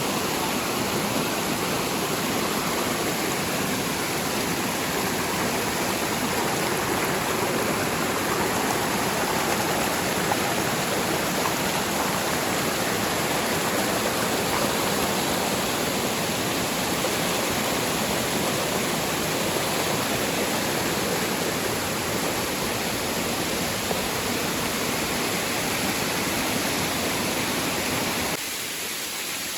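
Waterfall, a steady rush of falling water. Near the end it drops a little and loses its low rumble.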